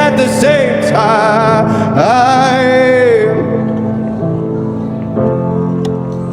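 A male singer holds a long wavering note over keyboard accompaniment; the voice stops about three seconds in and the held keyboard chords carry on alone.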